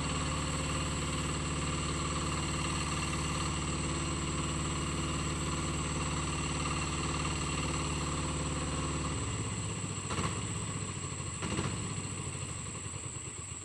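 Two-wheel hand tractor engine running steadily. About nine seconds in its low hum drops away, leaving a fainter running sound with two short clunks.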